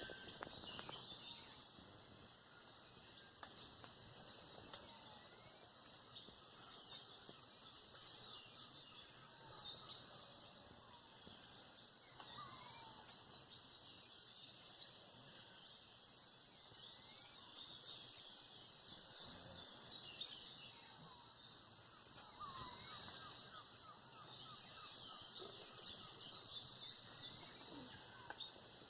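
Birds singing at dawn over a steady, high insect drone. A short, loud high call repeats every few seconds, with many quick falling chirps and some lower slurred whistles in between.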